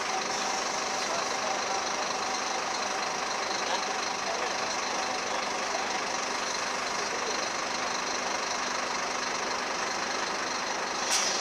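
Scania K250UB low-floor city bus with its engine idling steadily under a constant background hubbub. There is a short sharp sound near the end.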